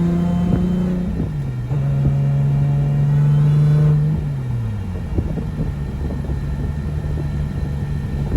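Nissan RB25NEO turbocharged straight-six running under way: engine speed drops about a second in, holds steady, then falls again about four seconds in to a lower, rougher note with scattered crackles.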